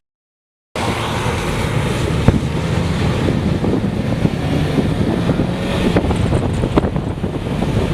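Strong wind buffeting the microphone: a loud, rushing noise with scattered crackles and knocks. It begins after a brief silent gap at the start.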